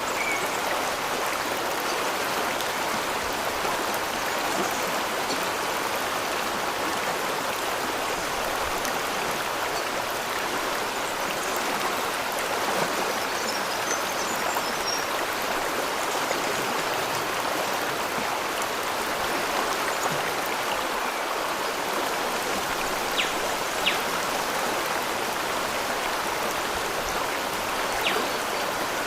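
Steady rush of running water, with a few sharp clicks near the end.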